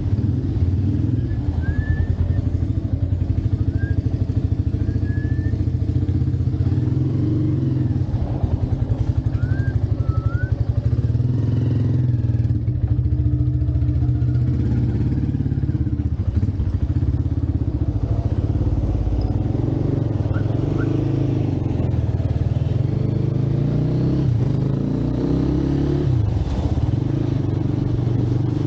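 Motorcycle engine running as it is ridden along, its pitch shifting up and down with changes in speed. A few short, high, rising chirps sound above it, first in the opening seconds, then again around a third of the way in and past the middle.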